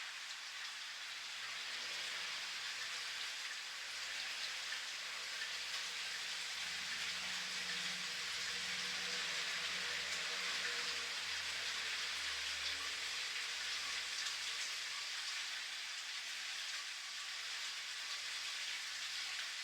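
Steady rain pattering down, a dense, even hiss. A faint low rumble swells in the middle and then fades.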